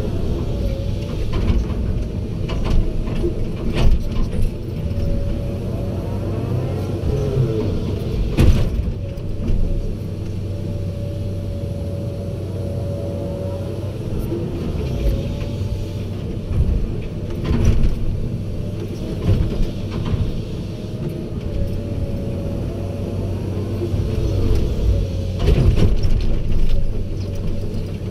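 Heavy diesel machinery engine running with a steady low hum, broken by several sharp knocks and clanks, the loudest about eight seconds in.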